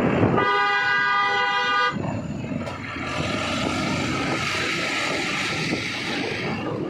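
A vehicle horn sounds one steady blast of about a second and a half, then the running noise of a car driving along a winding hill road continues.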